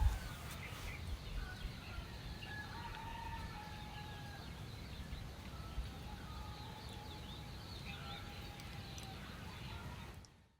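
Faint bird calls, some of them fowl-like, over a steady low background rumble. The sound cuts off suddenly near the end.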